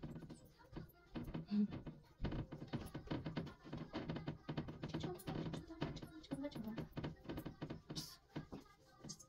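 A quick run of light clicks, taps and knocks, things being handled and set down.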